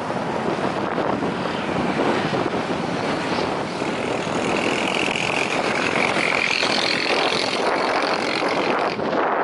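Jet airliner engines running, a steady broad rush with a high whine that comes in about halfway through and drops away near the end.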